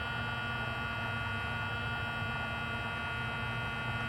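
Model diesel locomotive's onboard sound system playing a steady diesel engine idle through its small speaker, a constant hum.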